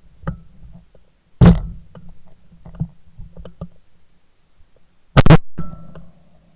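Two shotgun shots recorded from a gun-mounted camera, one about a second and a half in and another near five seconds in, with small handling clicks between them.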